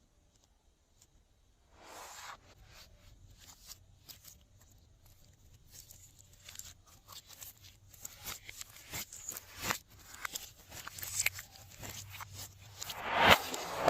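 Glossy slime being squished and worked by hand, making irregular sticky clicks and crackles that grow denser and louder, with the loudest squelch near the end.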